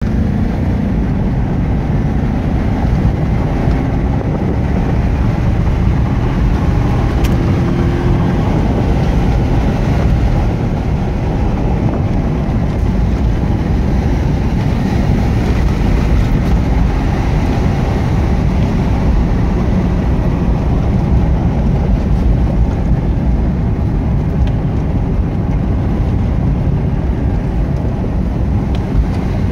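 In-cabin sound of a 1987 Mercedes-Benz 560 SEL's M117 5.6-litre V8 pulling steadily in a low gear while driving, a continuous low drone mixed with road noise.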